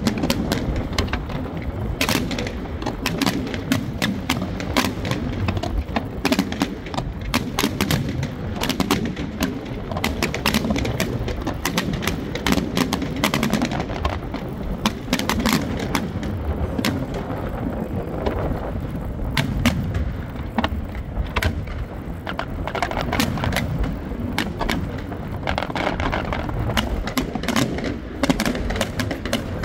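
Aerial fireworks going off: many sharp bangs and crackles in quick, irregular succession, several a second.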